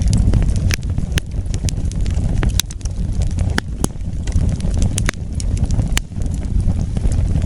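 Wood fire burning: a steady low rumble of flame with irregular sharp crackles and pops of burning wood, several a second at times.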